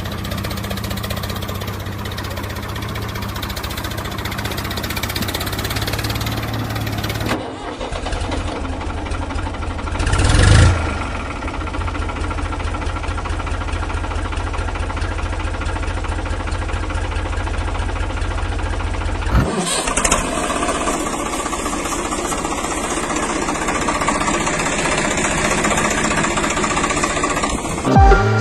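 Tractor-type engine running steadily. Its sound changes abruptly about seven and nineteen seconds in, and there is a short louder swell about ten seconds in.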